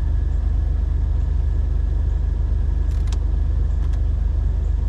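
A steady low mechanical rumble, like an idling engine, with a couple of faint clicks about three seconds in.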